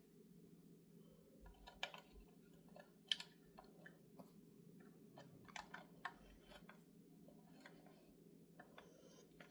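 Faint scattered small clicks and ticks of screws and a screwdriver being handled while the cover bolts go into an HEI distributor cap, the sharpest about two and three seconds in, over a faint steady hum.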